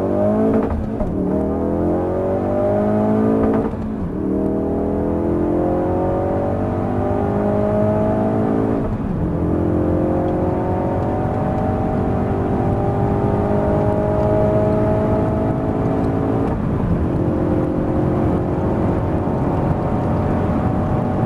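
Ford Focus RS's 2.3-litre turbocharged four-cylinder EcoBoost engine pulling hard at full throttle through the gears of its six-speed manual. The pitch climbs in each gear and drops at four upshifts, and the climbs get longer and slower in the higher gears.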